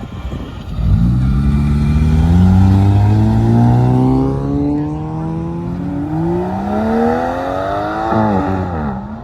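A car engine accelerating hard, its pitch climbing steadily from about a second in. It drops briefly for a gear change around six seconds in, climbs again, then falls away sharply near the end.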